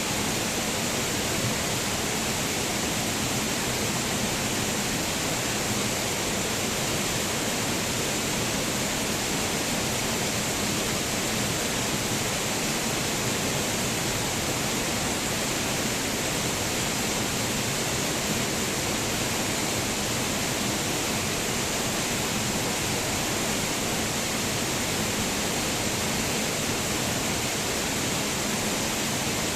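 Waterfall pouring: a steady, even rush of falling water with no change in level.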